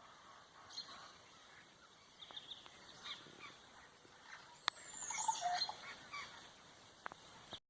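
Birds calling, a scatter of short calls that grows busier a little past halfway, with one sharp click just before that.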